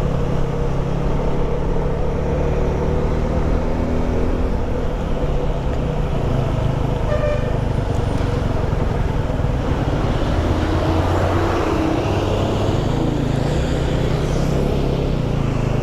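Steady engine and road noise of a vehicle being driven, with a brief horn toot about halfway through.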